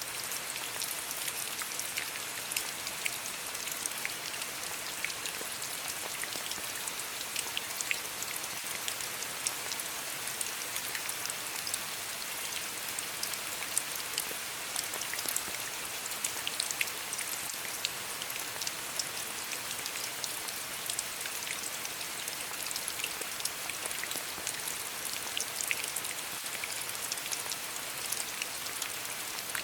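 Steady rain falling on a stack of stones: an even hiss with many separate drop clicks.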